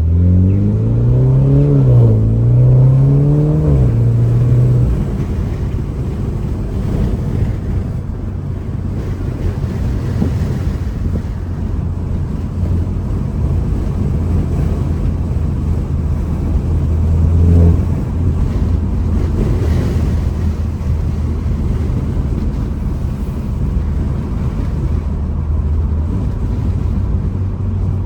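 BMW 330i's turbocharged four-cylinder through a Valvetronic valved axle-back exhaust, accelerating hard at the start, with its pitch rising and dropping at two gear changes, then cruising at a steady low drone. Road and wind noise run under it.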